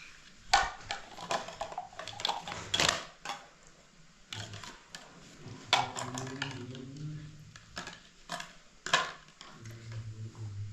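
Irregular clatter of hard objects being handled: scattered sharp clicks and knocks, with a low hum at times.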